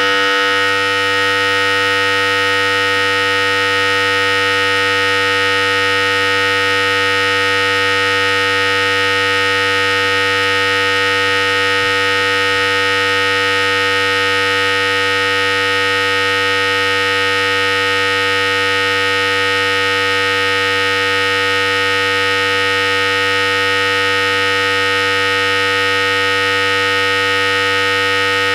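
Philips Series 5000 electric hair clipper running steadily, a continuous even motor-and-blade buzz.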